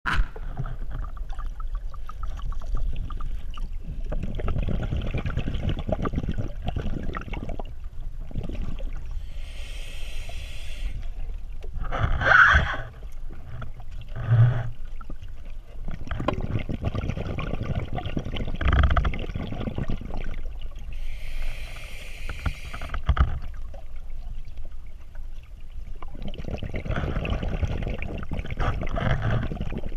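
Running river water with a heavy, uneven low rumble. A brighter hiss of rushing water rises twice, about a third and about two thirds of the way through.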